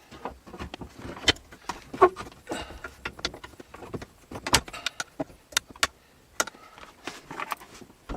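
Irregular metallic clicks and clinks of hand tools and metal parts being handled while fitting a car part.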